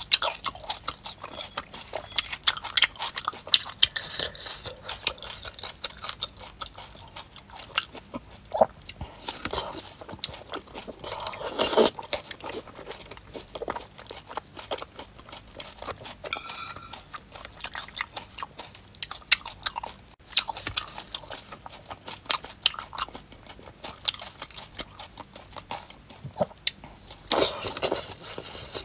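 Close-miked biting and chewing of crispy-skinned braised pork: a steady run of small wet clicks and crunches, with two louder crunchy bites, one about twelve seconds in and one near the end.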